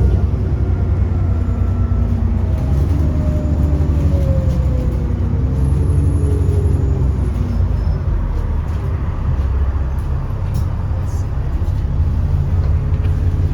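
Alexander Dennis Enviro400 double-decker bus engine and drivetrain running under way, with a steady low drone and a whine that falls in pitch a few seconds in.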